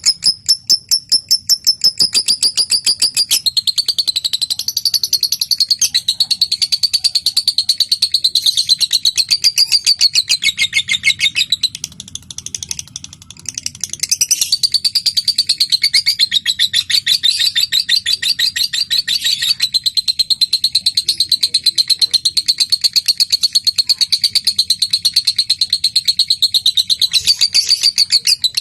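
Lovebird giving a long, rapid chattering trill, the sustained 'ngekek' song: a fast, even string of sharp high chirps. It falters briefly about twelve seconds in, then carries on steadily.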